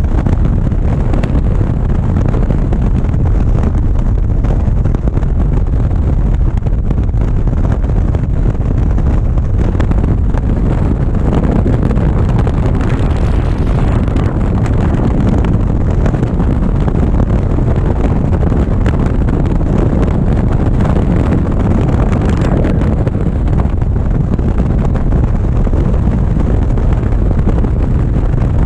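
Loud, steady wind noise on the microphone of a GoPro riding along on a moving motorcycle, with the motorcycle running underneath it.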